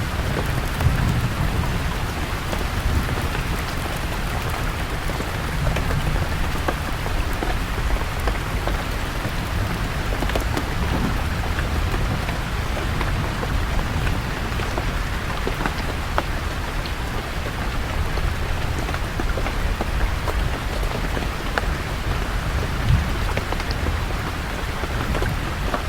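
Steady rain falling on forest leaves, with many small drop ticks over an even hiss, and a low rumble of distant thunder underneath that swells slightly a few times.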